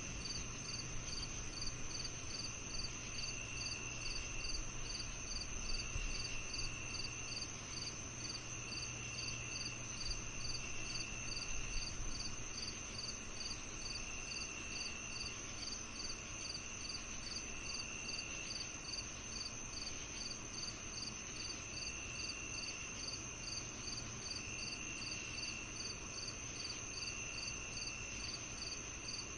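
Summer-evening insect chorus of crickets: one steady high trill, a regular chirp about twice a second, and a lower trill that comes and goes every two to three seconds.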